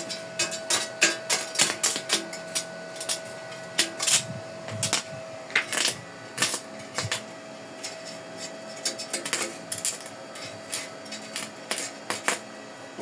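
Irregular light hammer taps on steel, sharp metallic clicks a few per second, with a steady high hum that fades out about halfway through.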